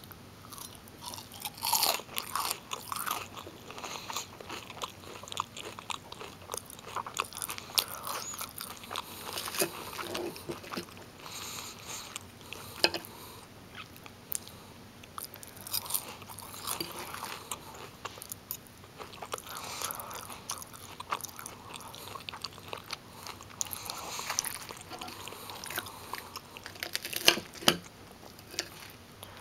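Close-up crunching and chewing of crispy breaded fish sticks: a steady run of crisp crunches, busiest early on and again near the end, where the sharpest ones fall.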